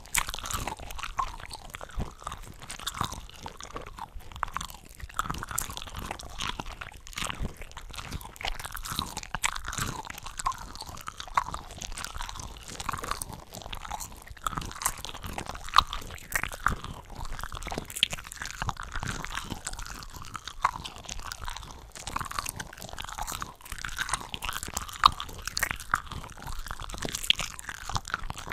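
Close-miked chewing and biting of cooked shrimp, with several eating tracks layered over one another: a dense, continuous run of wet smacks and snappy, crunchy bites.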